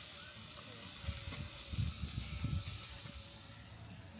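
Steak and sausages sizzling over a campfire: a steady hiss that eases a little near the end. A few louder low rumbling bumps come between about one and two and a half seconds in.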